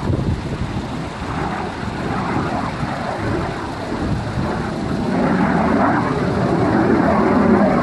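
Display aircraft engines rumbling overhead, the noise growing louder about five seconds in as a plane comes closer.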